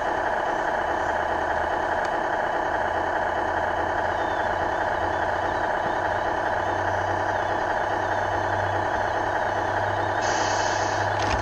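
Radio-controlled RC4WD 4200XL hydraulic excavator running steadily: a continuous mechanical whir and hum whose low tone rises a little partway through, with a short hiss near the end.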